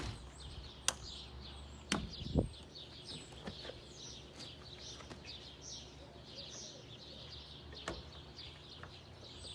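Small birds chirping continuously, with a few sharp clicks and one louder low thump about two and a half seconds in.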